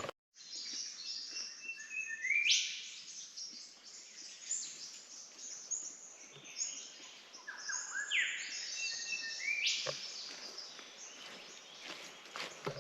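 Rainforest birds calling, a dense chorus of high chirps and whistles. Two loud calls sweep sharply upward in pitch, about two and a half seconds in and again around eight seconds in.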